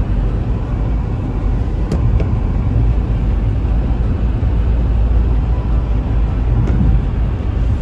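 Steady low rumble of a car driving, road and engine noise heard from inside the cabin, with faint clicks about two seconds in and near the end.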